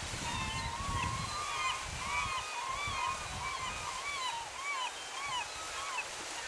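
A bird calling a rapid series of short notes, each rising and then falling in pitch, about three a second, slowing and stopping near the end. A low rumble of water or wind sits beneath the first couple of seconds.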